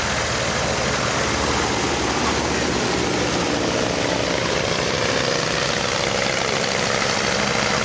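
Propeller aircraft engine running steadily.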